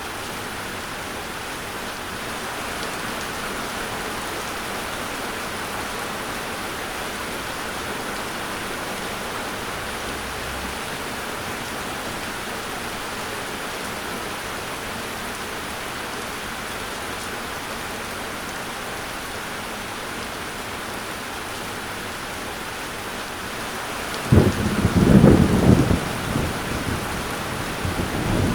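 Steady rain falling, then a roll of thunder breaks in loudly near the end and rumbles on.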